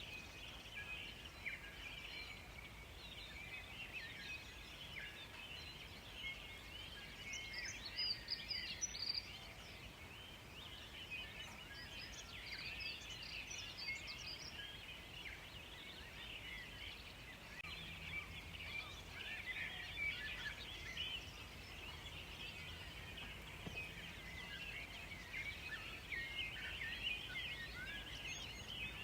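A dense chorus of small birds chirping and calling, many short high notes overlapping throughout, with a run of higher-pitched calls about a quarter of the way in.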